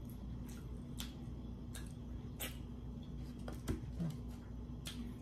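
Close-up chewing of a mouthful of fried chicken sandwich and fries, with about half a dozen scattered wet mouth clicks and smacks, over a faint steady hum.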